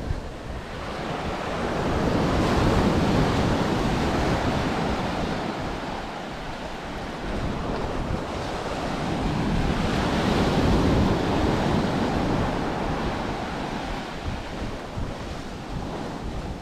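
Ocean surf breaking and washing up the beach, swelling twice about eight seconds apart, with low wind rumble on the microphone.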